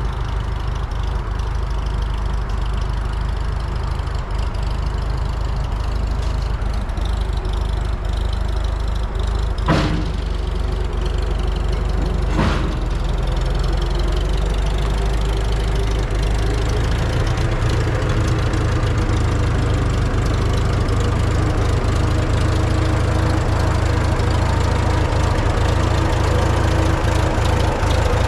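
Old Farmall tractor engine idling after a cold start in freezing weather, with two sharp knocks about ten and twelve seconds in. Its note shifts and grows slightly louder a little past halfway.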